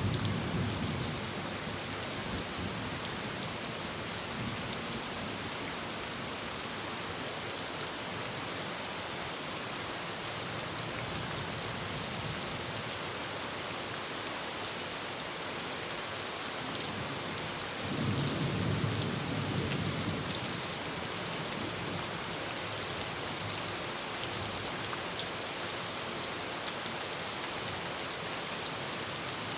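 Heavy rain falling steadily on a tin roof, with a low rumble of thunder at the start and a stronger one about eighteen seconds in that lasts around two seconds.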